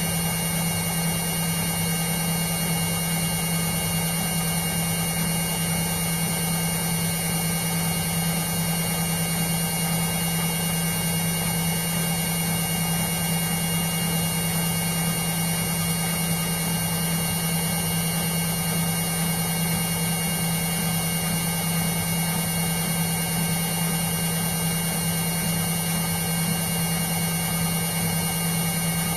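Indesit washing machine running with a steady, unchanging motor hum.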